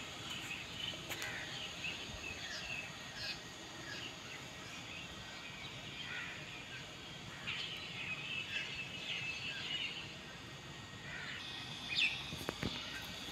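Birds chirping and trilling in short, scattered calls over steady outdoor background noise, with one louder falling call about twelve seconds in.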